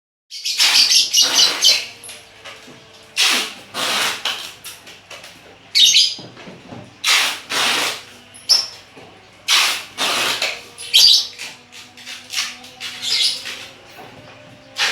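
Lovebirds calling in a run of about a dozen harsh, scratchy chirps, each under a second long, some with thin high whistled notes on top.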